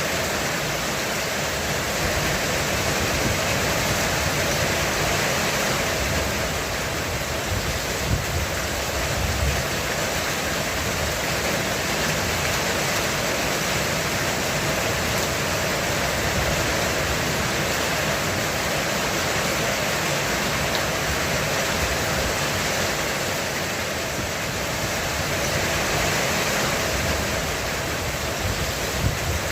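Heavy rain falling steadily on a roof, an even hiss and patter. A few brief low rumbles rise under it, about eight and nine seconds in and again near the end.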